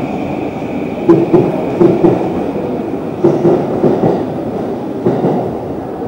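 Electric commuter train running on the tracks above, its wheels clattering over rail joints in quick pairs over a steady rumble, fading toward the end.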